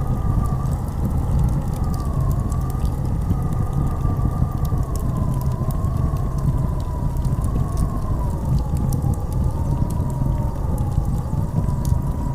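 Blizzard wind howling: a thin whistling tone that slowly rises and falls over a steady deep rumble of gusts, with scattered faint crackles throughout.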